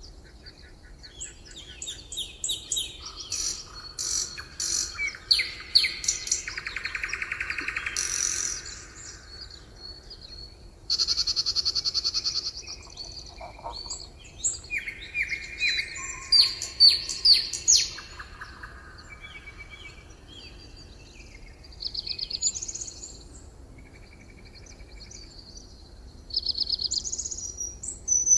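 Several songbirds singing at once in overlapping phrases of rapid trills, chirps and whistles, with brief lulls between bursts.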